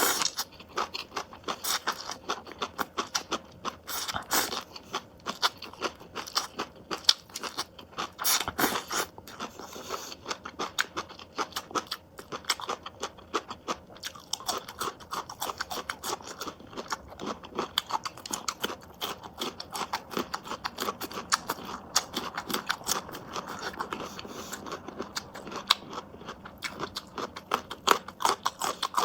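A person chewing and biting crunchy food close to the microphone, with many sharp, irregular crunches running on without pause.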